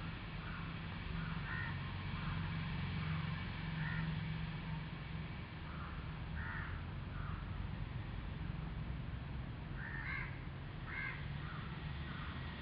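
Birds giving short calls now and then, with several close together about ten seconds in, over a steady low hum.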